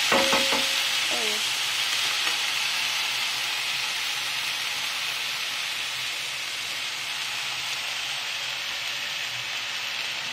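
Minced chicken and garlic sizzling as they fry in a nonstick pan, a steady hiss that slowly grows softer. A few strokes of a wooden spatula come in the first second or so.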